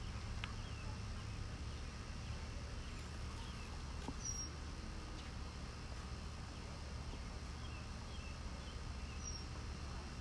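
Small birds chirping now and then, with a short, high falling call about four seconds in and again near the end, over a steady low rumble.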